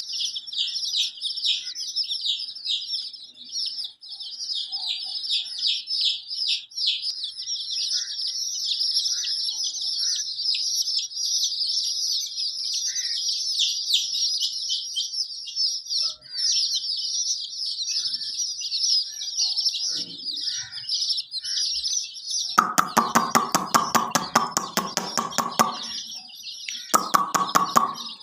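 A brood of chicks peeping continuously in a dense, high-pitched chorus. About two thirds of the way in, and again briefly near the end, a hen joins with loud, rapidly pulsing clucking.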